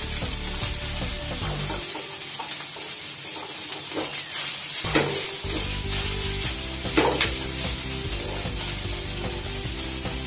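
Rice sizzling as it is stir-fried in a frying pan over a gas flame, stirred and tossed with long cooking chopsticks. A few sharp clicks of the chopsticks against the pan stand out, about four, five and seven seconds in.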